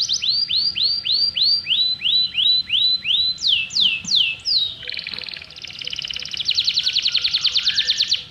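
A songbird singing a varied, loud song: a fast trill, then a run of about eight rising whistled notes, a few quick falling notes, and another fast trill that cuts off abruptly near the end.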